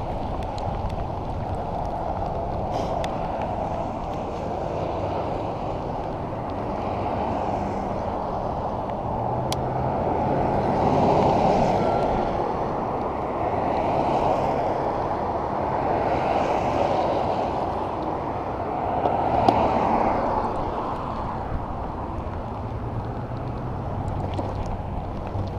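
Steady rush of wind and wet-road noise while cycling in the rain. Motor vehicles pass on the wet road several times, each swelling up and fading away, loudest about eleven seconds in and again near twenty.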